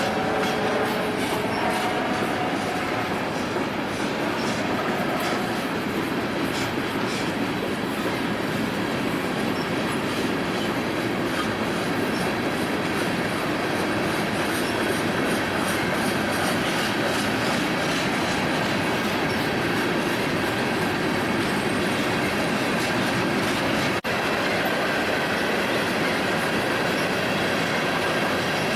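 Union Pacific train cars rolling past, wheels rumbling steadily with a rhythmic clickety-clack over the rail joints. A pitched wheel squeal fades out in the first few seconds.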